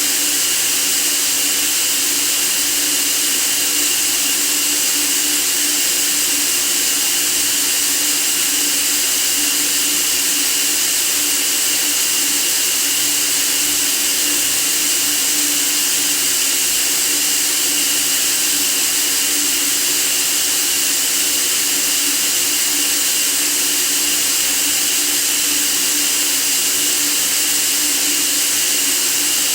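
Steady white noise for sleeping: an even, unchanging hiss, brightest in the high end, with faint steady hums underneath.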